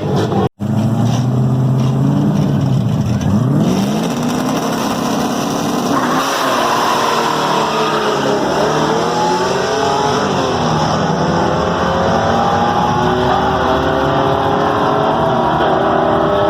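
Muscle-car engines running loud at a drag strip, the revs dropping and climbing. From about six seconds in, several engine notes overlap and rise steadily in pitch as the cars accelerate. The sound cuts out briefly about half a second in.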